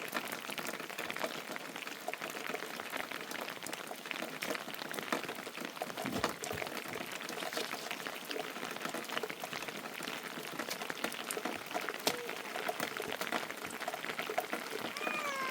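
Heavy rain falling: a steady, dense patter of many small drop impacts.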